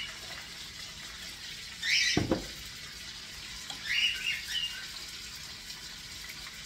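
Short high chirps, like a small bird's, come in two brief bouts about two seconds in and around four seconds, over a steady background hiss. A single dull low knock sounds just after the first chirps.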